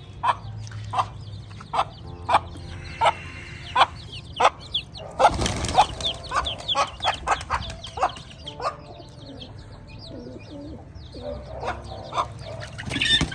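Chickens clucking in a steady run of short calls, with many faint, high chirps from young chicks over them. A brief loud rustle comes about five seconds in.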